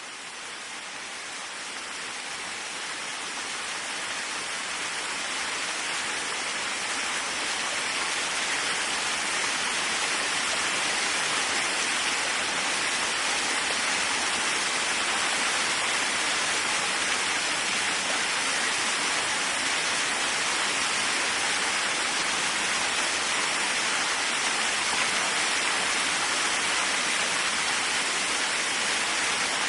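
Waterfall: a steady rush of falling water. It fades in at the start, builds over about ten seconds, then holds even.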